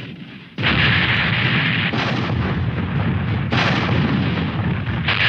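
Cartoon battle sound effects of ship cannons firing and blasting: after a quieter first half-second, loud blasts start every second or so and run into one another.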